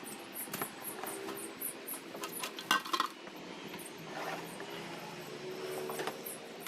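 Table fan parts being unpacked and set down: scattered light knocks and rattles of hard parts, with the loudest cluster about three seconds in.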